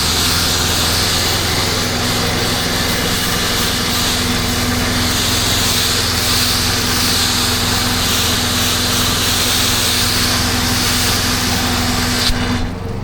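Pressure washer engine running steadily under the hiss of its high-pressure water spray. Near the end the spray cuts off suddenly while the engine keeps running.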